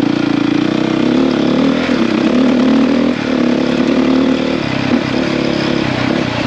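450 dirt bike's single-cylinder four-stroke engine running under throttle while riding. The note rises and falls a few times, dipping briefly about three seconds in and again near five seconds.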